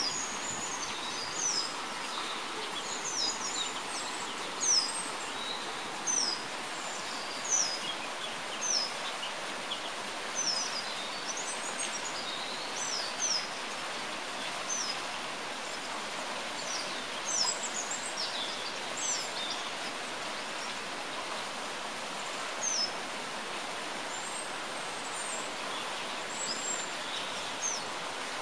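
Small songbirds giving short, high, thin call notes that slide down in pitch, roughly one every second or two and fewer near the end, over a steady background hiss.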